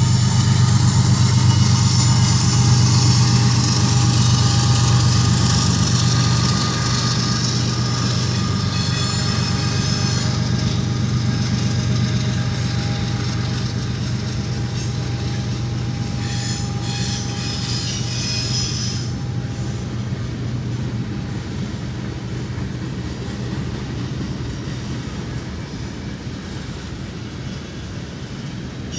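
Freight train passing: the CSX mid-train helper locomotive's diesel engine rumbles by, and boxcars roll behind it. Steady, high-pitched wheel squeal and a hiss from the rails die away about two-thirds of the way through. The whole sound slowly fades as the locomotive draws away.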